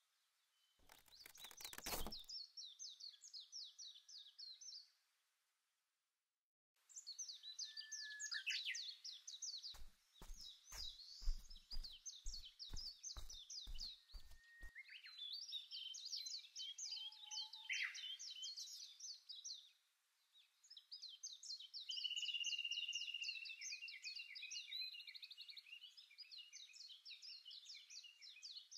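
Faint small-bird chirping: runs of rapid, high, short repeated notes, broken by brief silent gaps. Between about ten and fifteen seconds in there is a series of about ten sharp clicks, and near the start there is a brief burst of noise.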